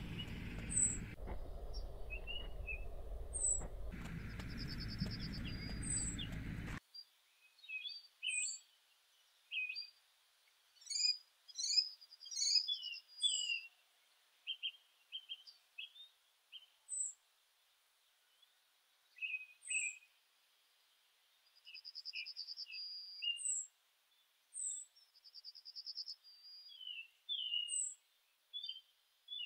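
Small birds chirping and calling: short high chirps, quick trills and whistled notes. For about the first seven seconds they sit over a steady background hiss. Then the background drops out completely, leaving only the scattered bird calls.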